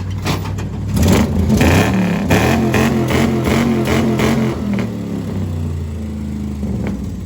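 1996 Dodge Ram 2500's 5.9-litre V8, still cold, blipped up in a series of revs starting about a second in, then settling back to a steady idle.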